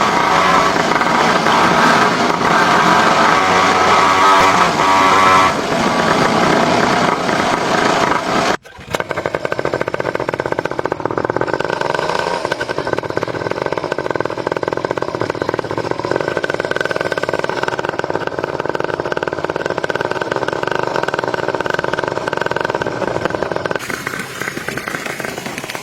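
Motorcycle engine running. The sound breaks off abruptly for an instant about eight and a half seconds in, then runs on steadily.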